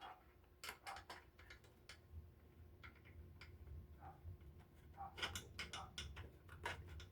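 Faint, irregular small clicks of a screwdriver working a screw into the heater's plastic housing, in two clusters: about a second in and again over the last two seconds.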